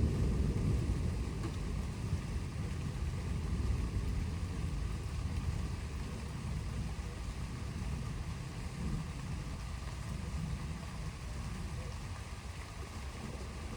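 Thunder rumbling, dying away over the first couple of seconds into a steady low rumble, with a faint hiss of rain.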